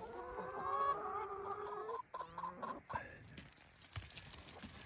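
Hens clucking softly: a drawn-out call over the first two seconds, then a few short clucks, after which it goes quieter.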